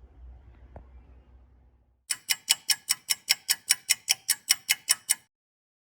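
Faint room tone, then a ticking sound effect like a clock, laid in over digital silence: about sixteen sharp, evenly spaced ticks, roughly five a second, for about three seconds, stopping abruptly.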